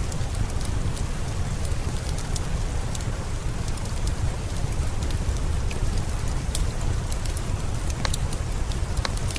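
Steady rain with a deep low rumble, dotted throughout with small sharp ticks and crackles.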